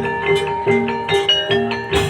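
Javanese gamelan music of the Banyumas ebeg accompaniment: tuned struck percussion ringing out in a quick, steady rhythm of several notes a second over sustained lower tones.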